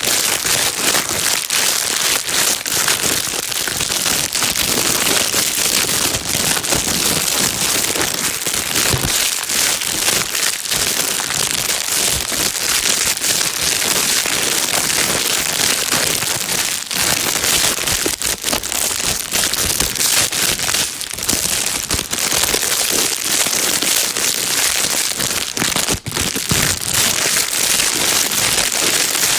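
Plastic bag being crinkled and rustled without pause, a loud, dense crackling used as white noise to soothe a baby.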